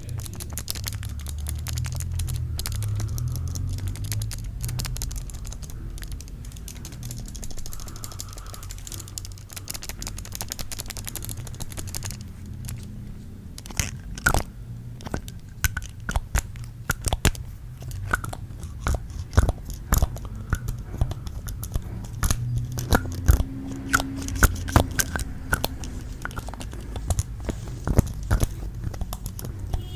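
Close-miked ASMR sounds made with bare feet: a low rubbing and crackling, then from about halfway through a run of sharp, irregular taps and crunchy clicks.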